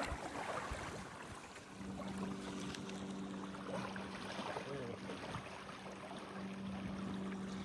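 A boat motor running with a steady, even hum that comes in about two seconds in.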